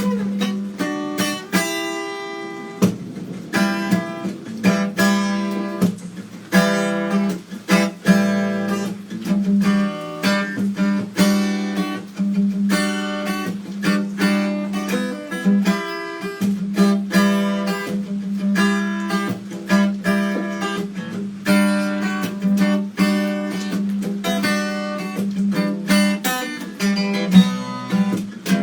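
Guitar being played, a continuous run of strummed and plucked chords over a steady low note ringing underneath.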